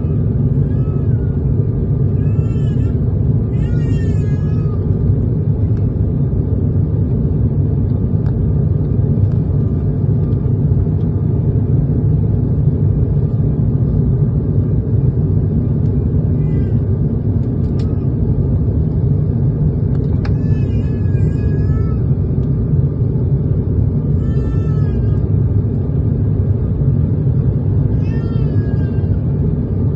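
Steady low rumble of engine and airflow noise inside an airliner cabin. Short, high, wavering cries break through it about half a dozen times.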